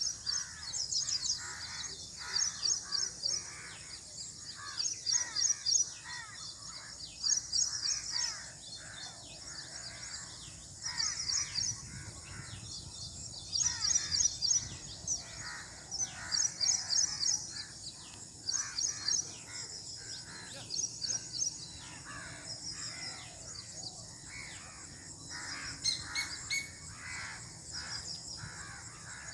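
Birds calling: repeated quick runs of high chirps every second or two, with harsher, lower calls among them over a faint steady outdoor background.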